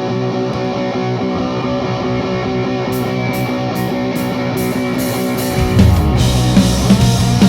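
Live grunge rock band playing the instrumental intro of a song. Electric guitar chords ring alone at first; cymbal hits at about two or three a second join about three seconds in; and near six seconds the full band enters, louder, with bass guitar and drum kit.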